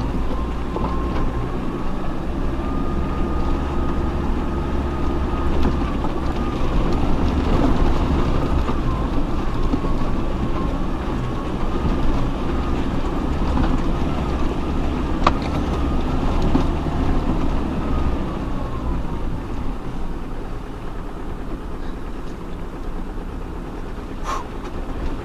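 Off-road 4x4's engine and drivetrain labouring at low speed over a rough track, with a steady low rumble and a wavering whine that fades out about three-quarters of the way through. A single sharp knock comes about fifteen seconds in.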